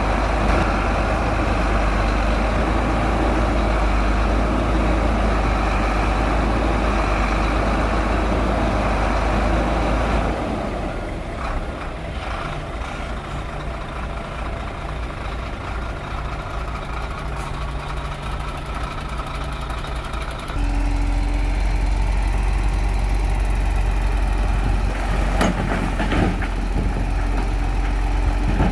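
Heavy Shantui crawler bulldozer's diesel engine running under load. About ten seconds in it drops to a quieter, steady running note, then comes back loud about twenty seconds in. A few sharp clanks come near the end.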